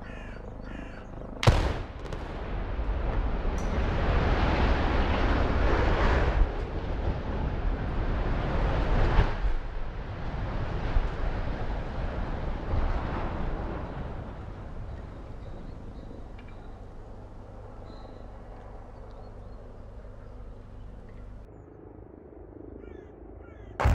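A demolition blast: a sharp explosive crack about a second and a half in, followed by the long low rumble and crash of a large industrial structure collapsing, which slowly dies away.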